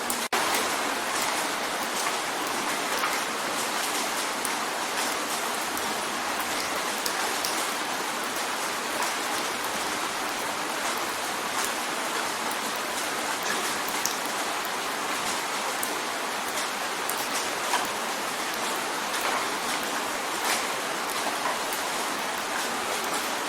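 Steady rain drumming on a window: a dense, even patter with scattered sharper drop ticks and a very brief dropout just after the start.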